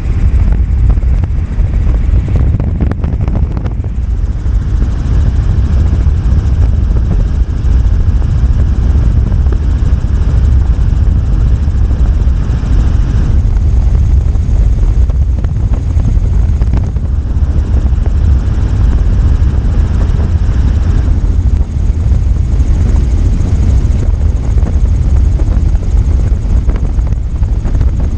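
Helicopter in flight: loud, steady rotor and engine noise, strongest at the deep end.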